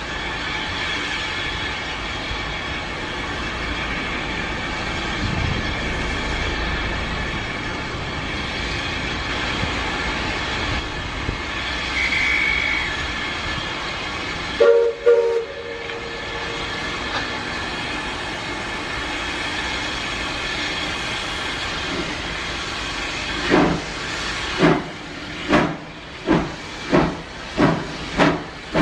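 Bagnall 0-4-0 saddle tank steam locomotive standing with a steady hiss of steam. A brief high whistle sounds, then the engine's own whistle gives two short toots. From about 23 seconds in it starts away, with its exhaust beats about one a second, slowly quickening.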